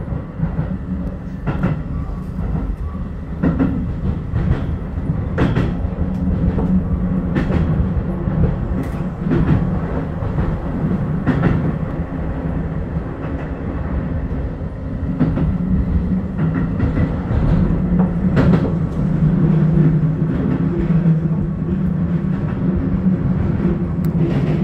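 Electric commuter train running on the line, heard from inside its rear cab: a steady rumble of wheels on rails, with irregular clicks as the wheels pass over rail joints.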